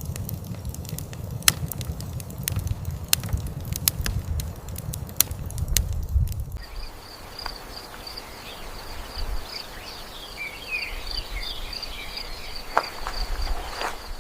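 Irregular crackling clicks over a low rumble. About six and a half seconds in, this changes abruptly to a steady, pulsing, high insect trill with small bird chirps over it.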